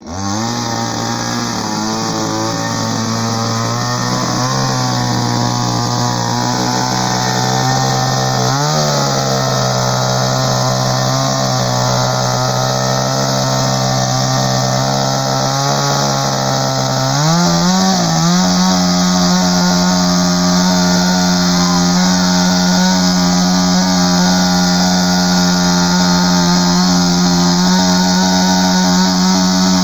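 A chainsaw engine running continuously. Its pitch dips briefly twice, then steps up about two-thirds of the way in and holds at a higher, steady speed.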